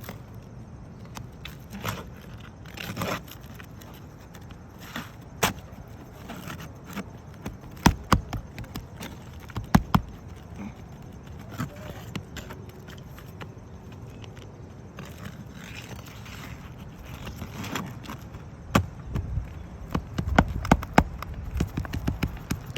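A roofer's snake tool knocking, prying and scraping at asphalt shingles to work a damaged shingle loose: irregular sharp knocks and clicks, a few loud ones around the middle and a quick cluster near the end.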